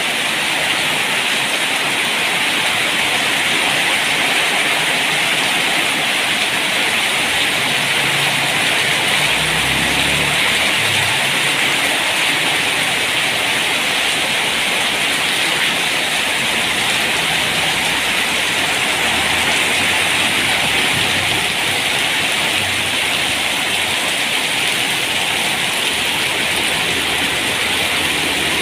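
Steady rain falling, an even hiss of drops on surfaces, with a low rumble coming and going about eight to twelve seconds in.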